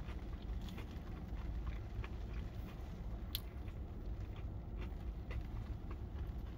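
Someone eating fried chicken close to the microphone: soft crunching and chewing with scattered small crackles and one sharper click a little over three seconds in, over a steady low rumble.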